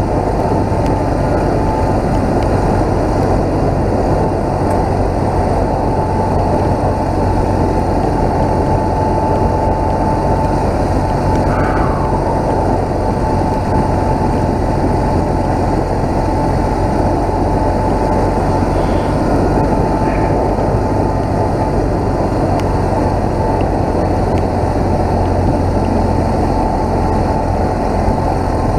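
BMW motorcycle riding at a steady pace: its engine runs evenly under a constant rush of wind noise.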